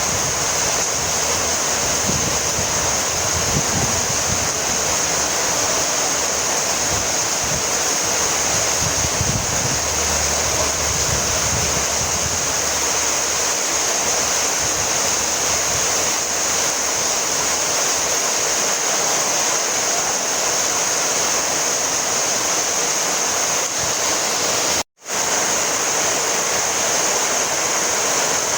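Heavy rain falling steadily, an even hiss without a break in its texture. About 25 seconds in, the sound cuts out completely for a split second, then comes back unchanged.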